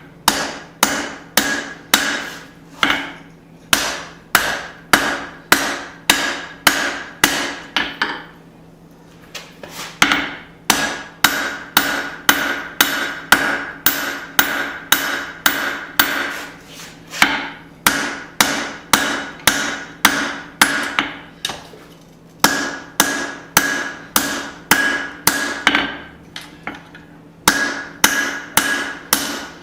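Hand hammer striking hot steel on an anvil in steady forging blows, about two a second, each followed by a ringing tone from the anvil. The hammering stops for about two seconds partway through and pauses briefly twice more later on.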